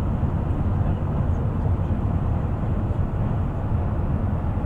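Steady low rumble of a moving bus, engine and tyre noise heard from on board.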